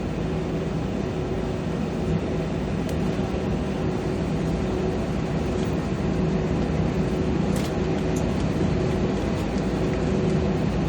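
Airbus A321 cabin noise: steady engine idle and air-conditioning hum, heard from inside the cabin while the airliner holds on the runway awaiting takeoff clearance. A low two-note drone sits under an even rush, with a few faint ticks.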